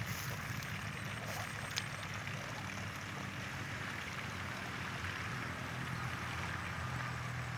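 A small engine running steadily at an even pitch, with a low hum under a steady hiss.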